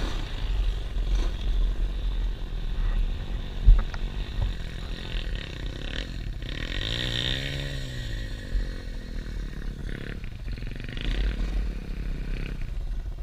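Pit bike engine running, with one rev that climbs and falls off about halfway through. A single sharp knock a little under four seconds in.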